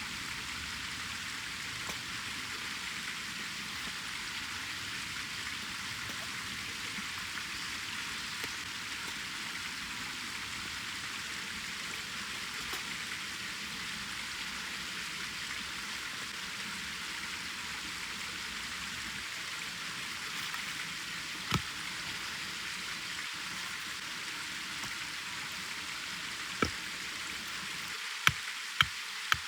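Wood fire burning in a fire stand: a steady crackling hiss, with a few sharp pops from the burning wood, more of them near the end.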